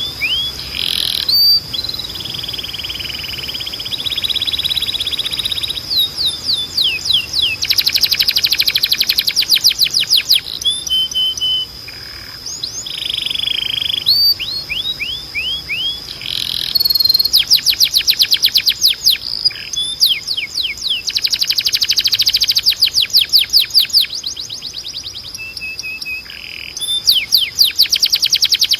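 Canary singing, phrase after phrase of rapidly repeated notes: fast trills of falling sweeps, rolling passages and short held notes, with the song changing every few seconds. A thin steady high tone runs underneath.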